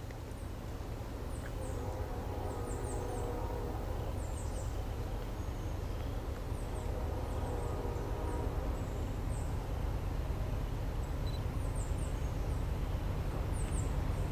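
The low rumble of an approaching freight train, growing steadily louder, with a faint chord of held tones from about two seconds in to about nine seconds in. A small bird calls in short, high chirps in repeated groups.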